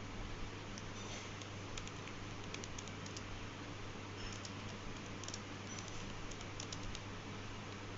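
Faint, irregular light clicks scattered through, over a steady low hum and background hiss.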